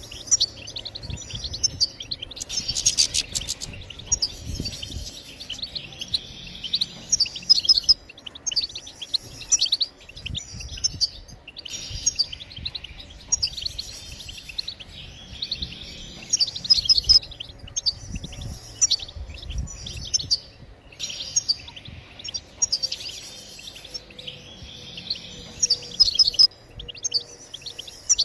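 European goldfinch twittering: rapid, high, jangling phrases of chirps and trills, broken by short pauses every few seconds. This is the chattering 'batbata' that goldfinch keepers play to stimulate their birds to sing.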